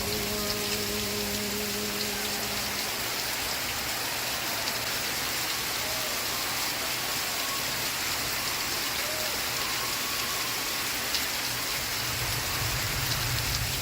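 Steady rain, an even hiss of many drops, with the tail of a song from a TV broadcast faintly beneath it for the first few seconds before it fades out.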